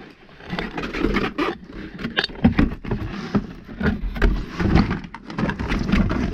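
Cardboard box and plastic packing being handled and pulled apart: repeated rustling and crinkling with scattered clicks and knocks.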